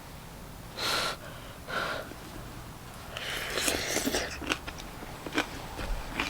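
Two short, noisy puffs of breath about a second apart, then a longer stretch of crackly noise and a few sharp clicks near the end.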